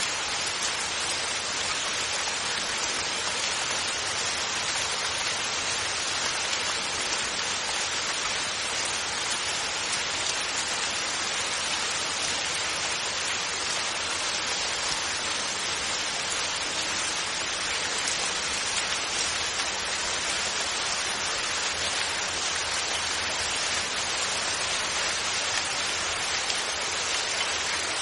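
Steady rain falling, a constant even hiss of many drops with no thunder.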